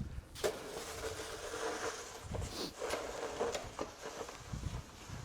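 Snow shovel scraping and pushing through snow: a rasping scrape that starts sharply about half a second in and runs for about three seconds, with a few clicks and knocks.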